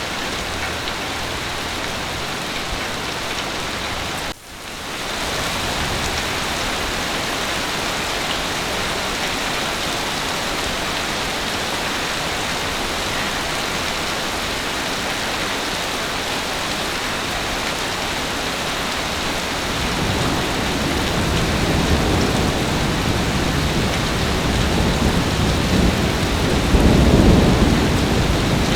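Heavy rain falling steadily, a dense even hiss, with a brief dip about four seconds in. Near the end a low rumble of thunder builds and rolls, loudest shortly before the end.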